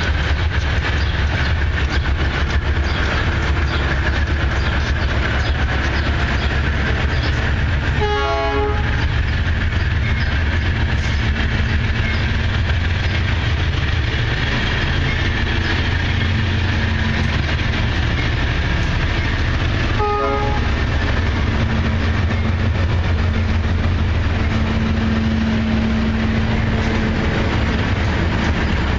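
Diesel-electric locomotives of a six-unit consist working hard as they pass, hauling a loaded iron-ore train uphill, with a steady low rumble and wheels clattering over the rails. A short horn toot sounds about eight seconds in, and another around twenty seconds in.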